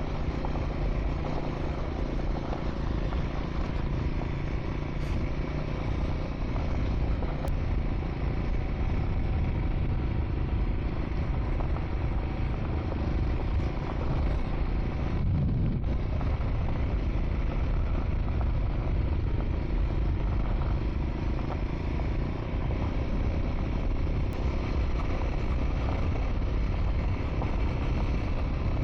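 Triumph Scrambler 400 X's single-cylinder engine running steadily on the move, mixed with a continuous rushing noise.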